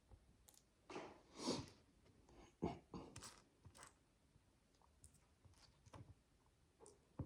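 Micro bricks, tiny plastic building blocks, being handled and pressed together: faint scattered clicks with a longer rustle of pieces about a second and a half in.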